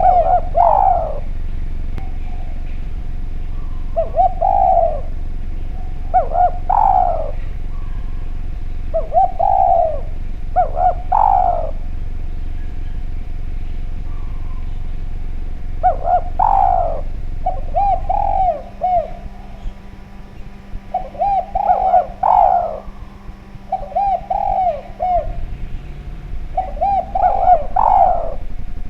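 Derkuku, the spotted dove, cooing in repeated phrases of several short coos every two to three seconds. A steady low hum lies under the calls and drops away about two-thirds of the way through.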